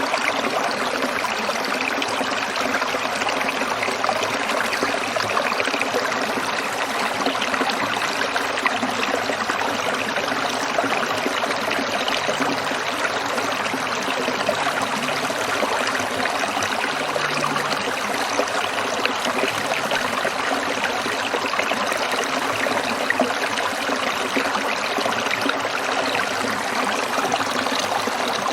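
Small stream trickling and babbling over stones, a steady, even splashing.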